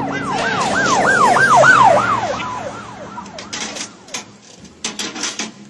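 Emergency vehicle siren in a fast yelp, rising and falling about four times a second. It grows louder, then stops about three seconds in, and a few sharp knocks follow.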